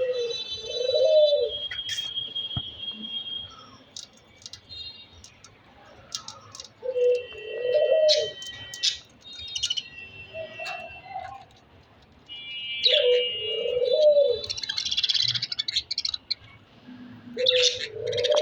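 Doves cooing in repeated low phrases, about five in all, with budgerigars chirping and warbling in high notes between and over them.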